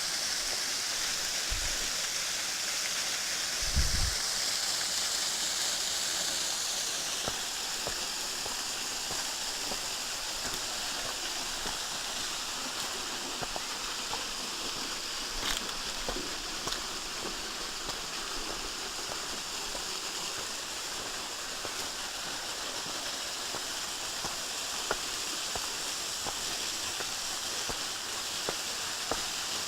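Waterfall with low flow, falling water making a steady rushing hiss. A couple of low thumps come in the first few seconds, and faint clicks are scattered through.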